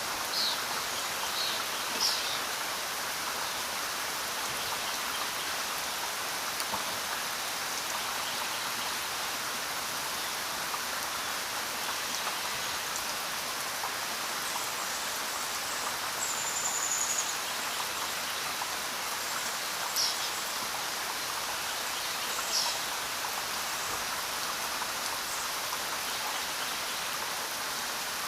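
Steady rain, an even hiss, with a few brief high-pitched sounds over it.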